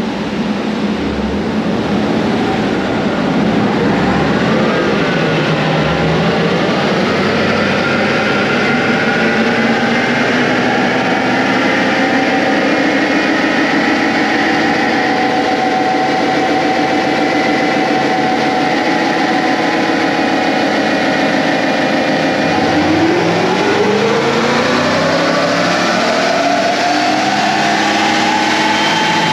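The Jeep CJ7's LS1 V8 running under load on a chassis dynamometer during a power run. The revs climb slowly for a long stretch, level off and ease back, then rise again near the end.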